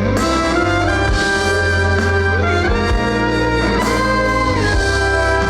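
Live band playing an instrumental break: a sustained lead melody with held notes and pitch bends over bass and drums.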